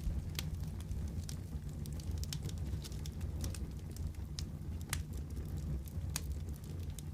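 Fireplace wood fire burning with a steady low rumble and irregular sharp crackles and pops, a few louder snaps among many small ones.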